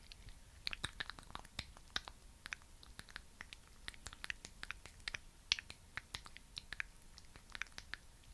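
Thick, sticky skincare product, like petroleum jelly, worked between fingers or on a surface close to the microphone. It makes irregular wet, sticky clicks, several a second.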